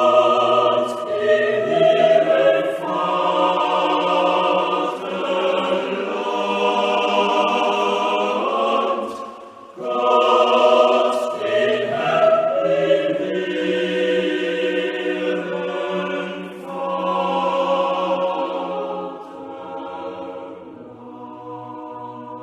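Choir singing in long held chords, with a short pause about ten seconds in and a fade toward the end.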